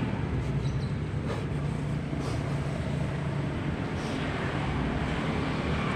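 Steady low hum of road traffic, with a few faint clicks.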